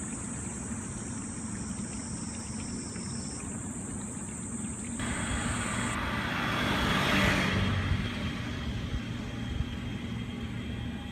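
A steady low hum with a high whine, then a vehicle passing: a rushing noise swells from about five seconds in, peaks around seven seconds and fades.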